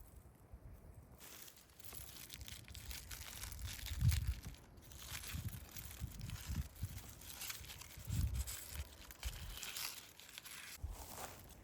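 Irregular crinkling and rustling handling noise, with a couple of dull low thumps about four and eight seconds in.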